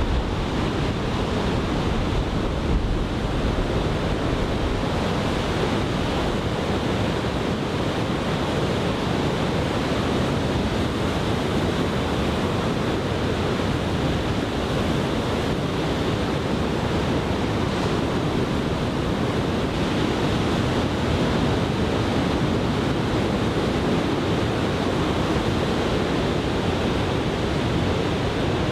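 Large typhoon-swell ocean surf breaking on the beach: a steady, continuous wash of waves with no distinct single crashes.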